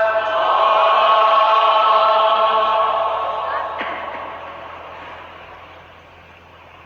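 Male Quran reciter in melodic tajweed style, drawing out the end of the word 'darajat' in one long held note that then fades away over the following few seconds. A short click about four seconds in.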